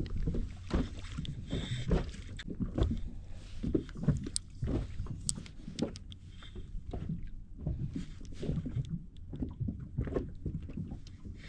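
Water lapping and slapping against the hull of a small fishing boat in irregular low splashes, with scattered small knocks.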